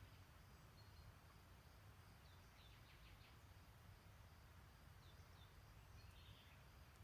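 Faint distant songbirds calling: short high chirps every few seconds, a quick trill about three seconds in and another brief call near the end, over a low steady rumble of outdoor background noise.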